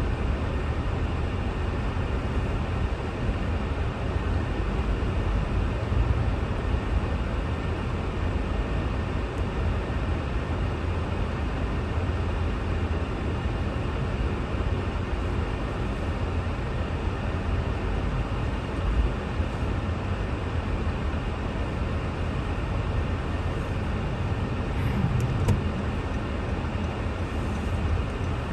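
Steady low road and engine rumble heard from inside a car driving on snow-covered roads.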